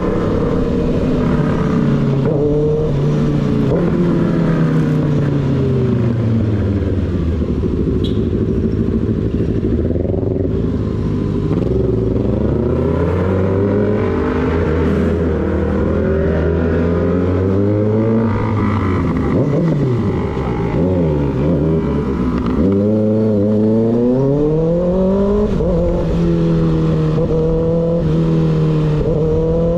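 Motorcycle engine heard while riding, its revs rising and falling with the throttle and gear changes. The pitch eases down over several seconds, dips low a little past the middle, then climbs and holds steady again.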